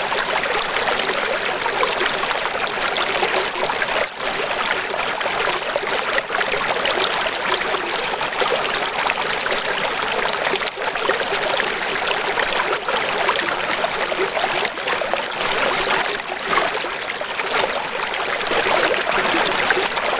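Steady running water, an even rushing splash that is mostly light and hissy, with little deep rumble.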